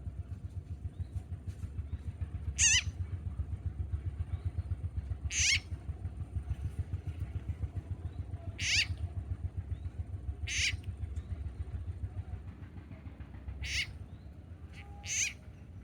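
A frog screaming in distress, as when a snake has caught it: six short, shrill, squawk-like cries a couple of seconds apart. Beneath them runs a steady, rapid low pulsing.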